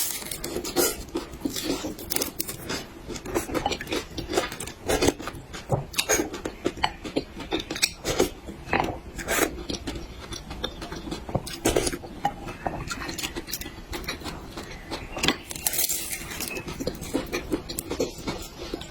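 Close-miked eating: irregular chewing and mouth sounds, with utensils clicking and scraping against dishes.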